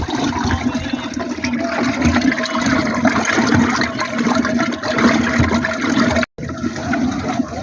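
Steady rush of flowing water, broken off for a moment about six seconds in.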